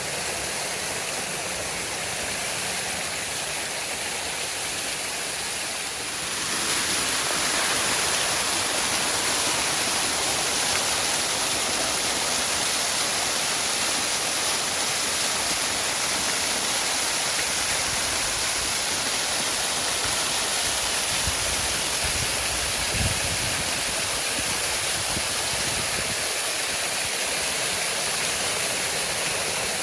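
Waterfall: a steady rush of falling water that grows louder about six seconds in, with a brief low thump about 23 seconds in.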